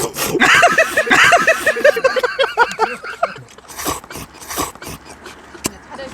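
Instant udon noodles slurped hard in one go, a hissy slurp at the start and short slurps again in the second half, with a few seconds of quick-pulsed laughter in between.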